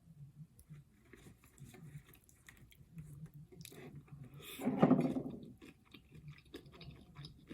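Close-miked chewing of seafood, with soft wet clicks and crunches. About five seconds in there is one louder, pitched mouth sound lasting under a second.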